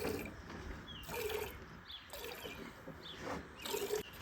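Hand milking: milk squirting from a cow's teats into a pail in irregular spurts, with short chirps of a bird in the background.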